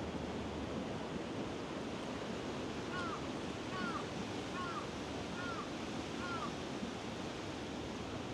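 Kamo River water rushing steadily. In the middle, a bird gives five short chirps, one a little under every second.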